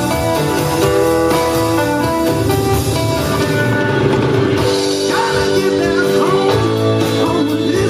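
Live blues band playing an instrumental passage of a Cajun blues song, with guitar leading over the band.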